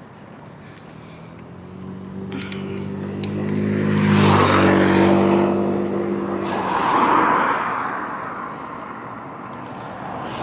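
A car passing close by on the road, its engine note dropping in pitch as it goes past about four seconds in. A second vehicle's tyre noise rises and fades about seven seconds in.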